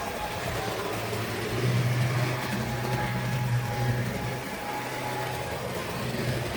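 A Tri-ang model train running along the layout's track: a steady electric motor hum with wheel and rail noise, louder for a few seconds in the middle.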